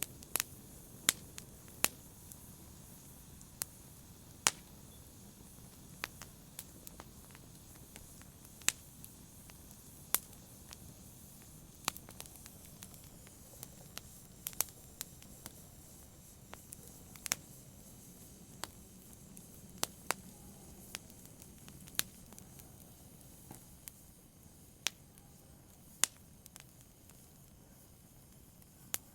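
Wood fire crackling: sharp, irregular pops and snaps, about one every second or two, over a soft steady hiss of burning.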